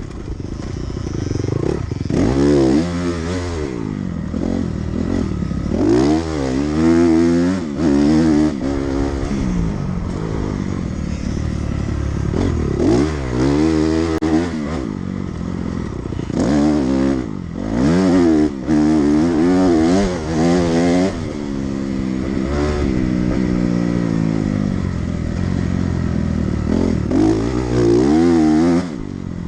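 Dirt bike engine being ridden hard around a motocross track. It revs up and then drops in pitch over and over, every second or two, with several brief throttle cuts.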